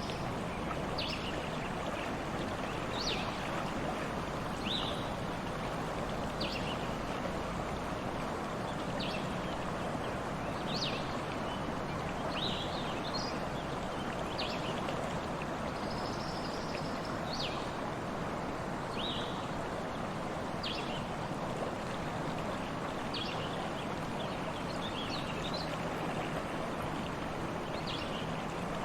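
Stream water running steadily. Over it a bird calls repeatedly in short, high chirps every second or two, with a longer high note about halfway through.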